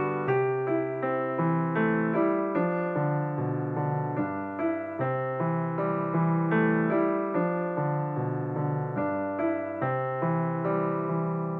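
Background music: piano or electric piano playing a steady run of notes.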